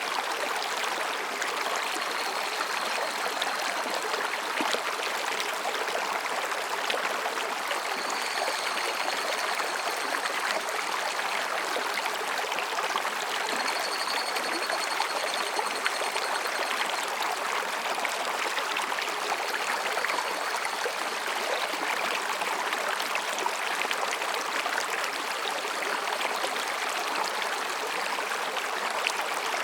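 Mountain stream rushing and babbling over rocks, a steady even water noise. Faintly above it, higurashi cicadas call a few times with high, thin, ringing calls.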